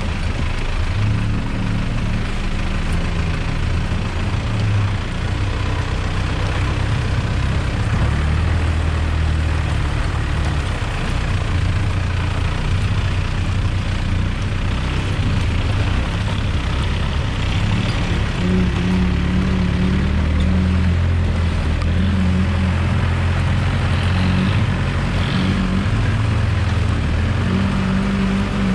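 An off-road 4x4's engine running as the vehicle drives along a rough dirt track, with continuous road and tyre noise; the engine note rises and falls as the revs change.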